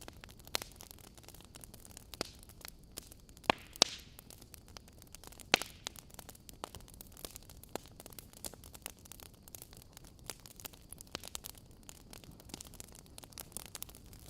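Wood fire burning in a fireplace, crackling: scattered sharp pops and snaps over a soft steady hiss, with a few louder pops about three and a half and five and a half seconds in.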